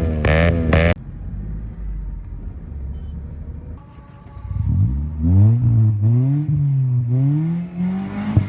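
Car engine being revved several times from about five seconds in, its pitch climbing and falling in repeated swells over a low running rumble. A louder sound cuts off abruptly about a second in.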